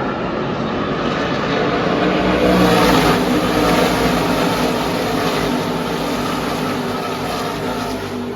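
A pack of NASCAR truck-series race trucks' V8 engines running at speed as the field passes, many engines at once, swelling to loudest about three seconds in and then slowly fading.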